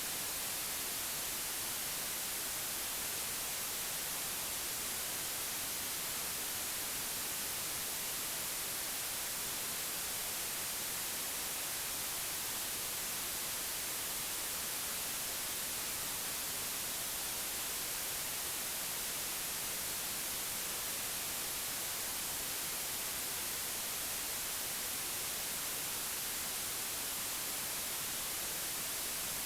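Steady white noise: an even, unbroken hiss with no changes.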